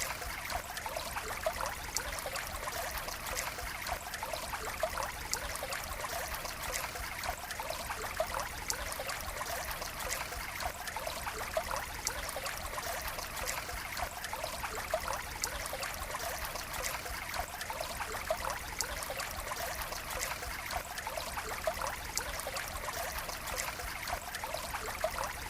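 Water running in a steady trickle: an even splashing hiss dotted with many small drips and plops.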